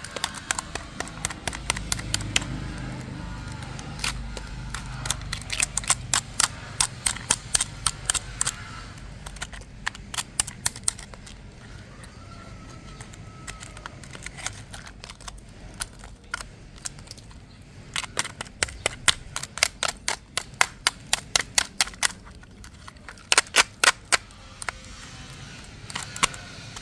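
Runs of sharp clicks and taps, several a second, in bursts with pauses between, over a low hum during the first few seconds.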